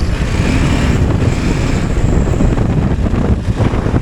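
Wind buffeting the microphone of a moving motorcycle: a loud, uneven rumble of rushing air.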